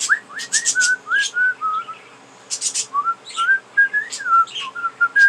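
A person whistling a short tune to pet budgerigars, a run of clear notes with a short gap before the second half, while the budgies chirp over it.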